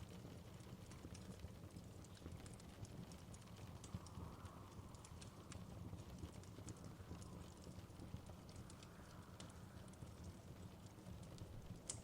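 Wood fire crackling faintly in a fireplace: irregular small pops and snaps over a low steady rumble.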